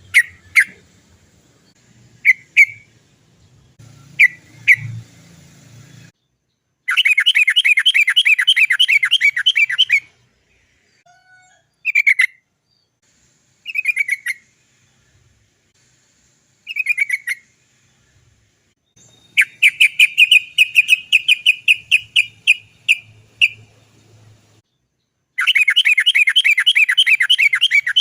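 Yellow-vented bulbul (trucukan) singing. Scattered single chirps give way to three long rolling runs of rapid, repeated 'cok cok cok' notes, each lasting several seconds.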